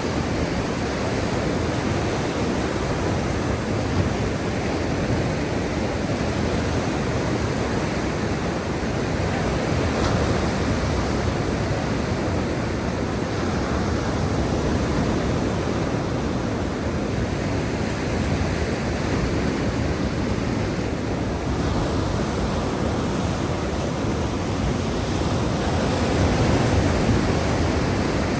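Black Sea waves breaking and washing in a continuous rushing surf, swelling slightly about ten seconds in and again near the end.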